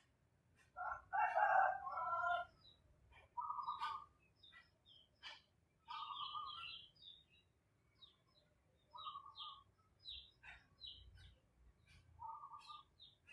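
Birds calling: a louder drawn-out call about a second in, then short repeated notes every few seconds, with higher chirps and scattered faint clicks in between.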